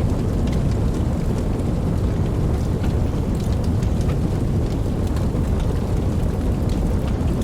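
Steady rain with a deep, even rumble underneath and scattered drops ticking higher up.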